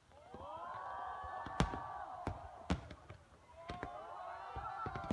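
Fireworks going off in a run of sharp separate bangs and pops, with a crowd's voices swelling in two long drawn-out 'ooh' sounds.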